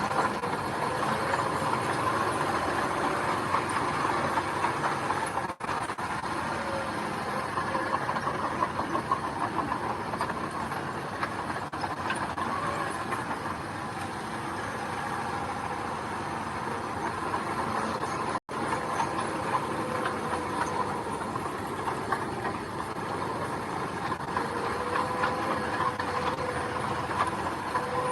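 Diesel earthmoving machinery running steadily, an engine drone under a constant rattling clatter. The sound cuts out for an instant twice.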